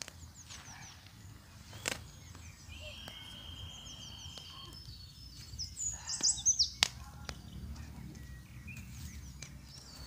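Small birds chirping over and over, with a louder flurry of high calls about six seconds in and a steady high-pitched note for a second or two around three seconds in. Two sharp knocks cut through, one about two seconds in and one near seven seconds.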